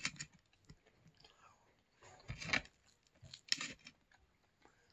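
A person chewing crispy pizza crust with the mouth close to the microphone: irregular crunches, loudest right at the start and again about two and a half and three and a half seconds in.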